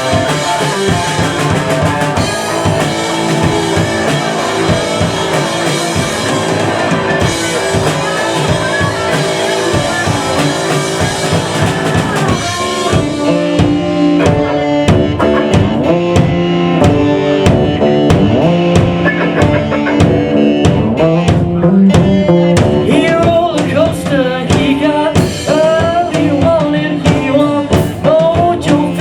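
Live rock band playing, with drum kit and electric guitar over a steady beat. About halfway through the sound thins out and the drum hits stand out more sharply.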